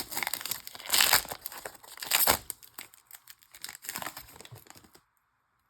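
Foil trading-card pack wrapper being torn open and crumpled by hand, a run of crackling crinkles with two louder bursts about one and two seconds in, cutting off abruptly near the end.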